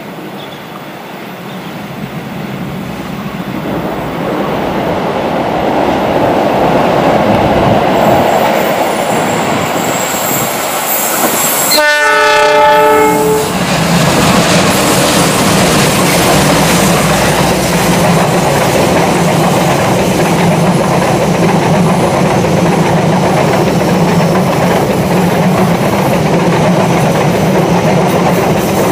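Passenger train hauled by a CC206 diesel-electric locomotive passing at close range. Its noise builds over the first few seconds. A short horn blast comes about twelve seconds in, then the steady rumble of the locomotive and the coaches rolling over the rails.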